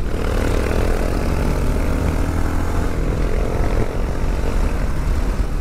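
Honda XL 600 R's air-cooled single-cylinder engine running at speed on the road, its revs shifting a little, with wind rushing over the onboard microphone.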